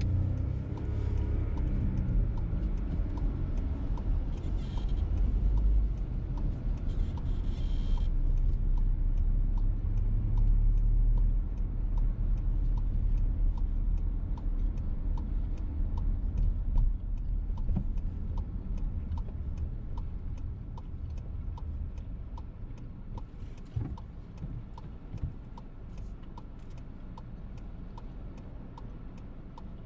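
VW T-Roc heard from inside the cabin: steady engine and road noise that gets quieter in the second half as the car slows, with the turn indicator ticking at an even pace, set for an announced right turn.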